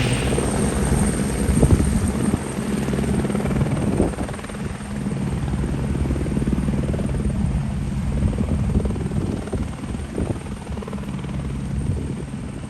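Airbus AS350 B2 Écureuil helicopter running, a steady hum from its single turboshaft engine and rotor, growing somewhat fainter toward the end.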